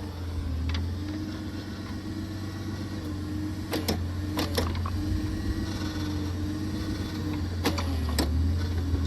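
Engine of a post-hole auger machine running steadily while the auger bores slowly into frozen ground against a thick tree root, with several sharp knocks scattered through.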